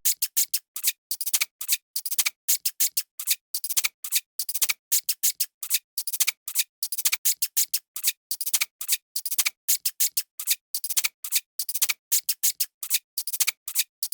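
A rapid, uneven series of sharp clicks, about four a second, with silence between them.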